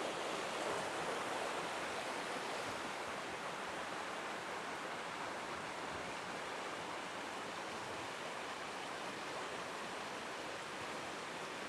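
Steady, even rushing noise of the outdoors, with no distinct events.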